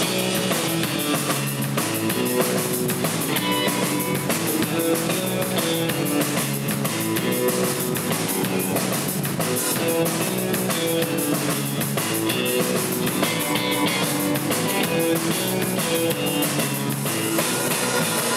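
Surf rock band playing an instrumental live: electric guitar (a Fender Stratocaster), electric bass and drum kit keeping a steady beat with frequent cymbal hits.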